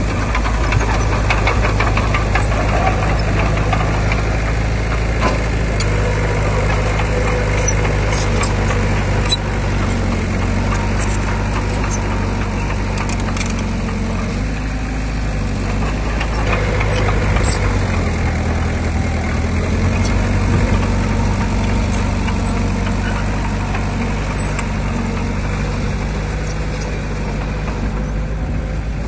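Heavy earthmoving machinery's diesel engine running steadily, swelling a little partway through, with frequent metallic clanks and rattles over it.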